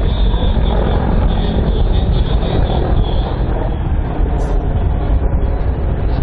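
Helicopter in flight, its rotor and turbine engines making a loud, steady, dense noise with a thin high whine through the first three seconds.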